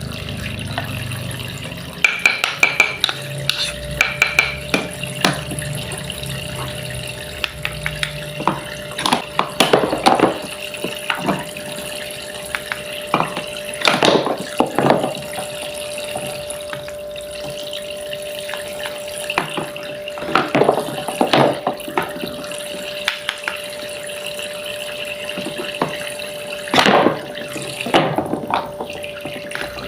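Small battery-pumped toy sink faucet running water, with a steady motor hum, and small dishes and utensils clattering at intervals.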